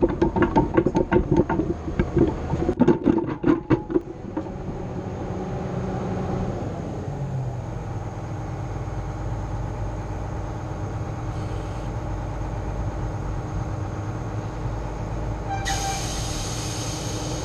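Grapple loader working: rapid clanking and knocking for the first few seconds, then a steady engine and hydraulic drone. A loud hiss starts near the end.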